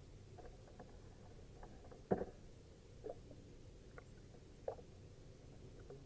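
Faint, scattered knocks and taps against a kayak, the loudest about two seconds in, over a low rumble.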